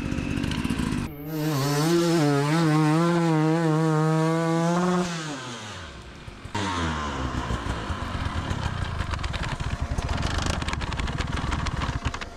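Hard-enduro motorcycle engine held at high revs for about four seconds, its pitch wavering. The revs then drop away, and it runs on lower and rough.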